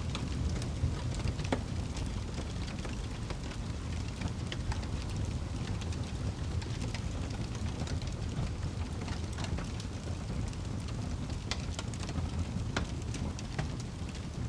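Wood fire in a fireplace crackling, with many small, irregular pops over a steady low rumble of burning.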